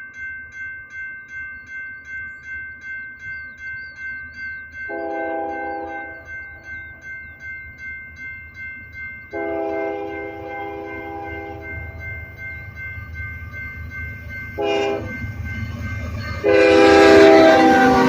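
Crossing bell dinging about three times a second, then a freight locomotive's horn sounds the grade-crossing signal: two long blasts, a short one and a final long one, each louder as the train's low rumble builds.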